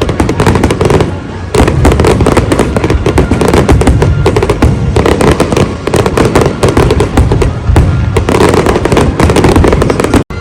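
Large aerial fireworks display bursting in rapid, continuous volleys of bangs and crackles, with music playing underneath. The sound drops out for a split second near the end.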